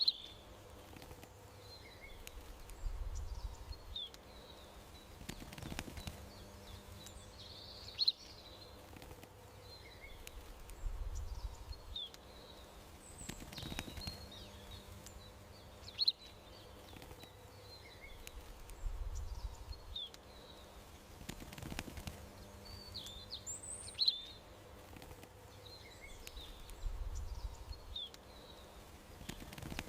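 Small songbirds chirping in short, high calls over a faint steady outdoor hiss, with a brief low rumble now and then. The same stretch of chirps and rumble repeats about every eight seconds, as a looped ambience track does.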